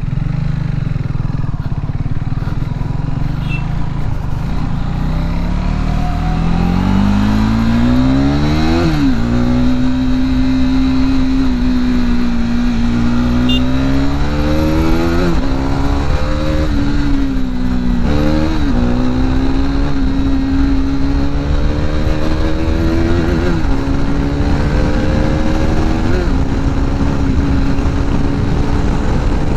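Modified KTM RC 390's single-cylinder engine with a loud aftermarket exhaust, accelerating hard. The pitch climbs, then drops sharply at each gear change, several times over.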